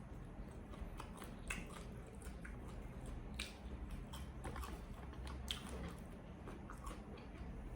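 Close-up eating sounds: a person chewing and biting, with scattered short sharp clicks and smacks over a steady low hum.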